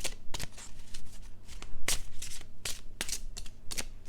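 Tarot cards being handled and shuffled: an irregular series of sharp card snaps and flicks, several a second.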